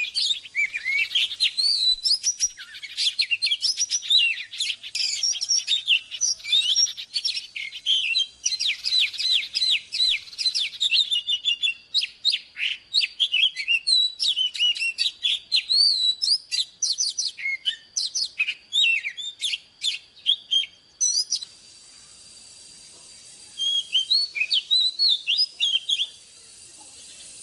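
Oriental magpie-robin singing: a fast, varied run of high whistled notes, sweeps and chirps. The song breaks off for about two seconds near the end, leaving a faint hiss, then a few more phrases follow.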